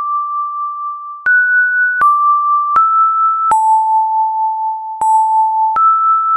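Samsung Anycall SCH-X730 mobile phone ringtone: a slow melody of plain, pure beep tones, one note at a time, each held for most of a second or longer. The notes step up and down, with a long lower note in the middle before the tune climbs again.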